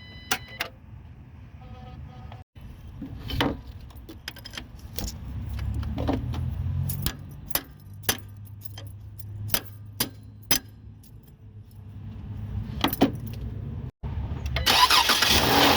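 Repeated sharp clicks and rattles with a low hum swelling in and out as the car is tried with a failing starter; near the end the Chrysler 200's 3.6 V6 catches and runs.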